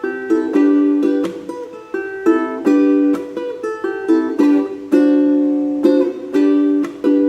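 Ukulele playing an instrumental melody in plucked notes and chords, each note starting sharply and ringing out before the next.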